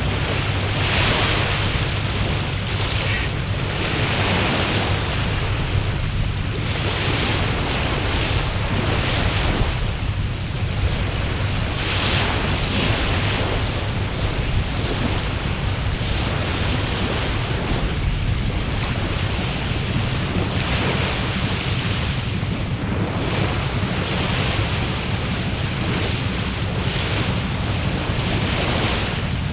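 Wood fire burning in a Coleman Fire Disc fire pit: a steady rushing noise that swells and eases every second or two, with a steady high-pitched whine running underneath.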